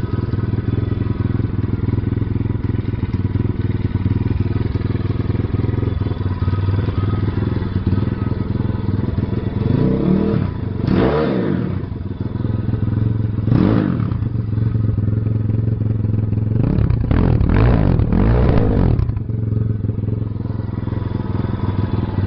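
Pit Pro 140XR pit bike's single-cylinder four-stroke engine idling, revved up and back down about ten seconds in, blipped briefly a couple of seconds later, then revved several times in quick succession before settling back to idle. Heard through a camera phone's microphone.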